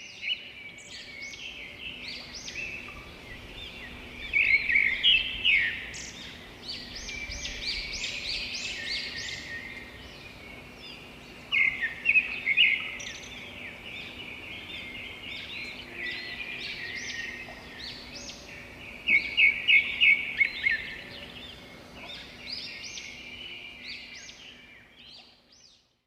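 Songbirds chirping and singing, several at once, with three louder runs of quick repeated notes; the birdsong fades out near the end.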